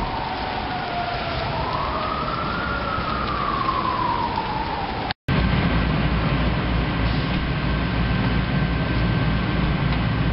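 A wailing emergency siren sliding down, up and down again in pitch over a steady rushing noise of rain or water. The sound cuts out briefly about five seconds in, then comes back as a louder steady rush with a low rumble.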